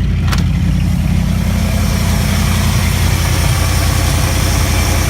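1984 Dodge Ram pickup's engine idling steadily, running on a replacement two-barrel carburetor, with a brief sharp click about a third of a second in.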